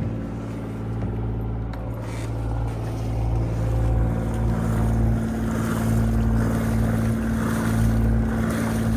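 Boat engine running steadily at idle after its water pump was repaired, running normally with no issue. A rushing hiss grows louder about halfway through.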